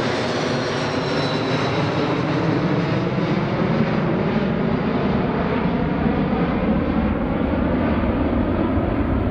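Jet airliner engines passing close by: a high whine falls in pitch in the first couple of seconds, then a steady rumble remains as the high part fades away.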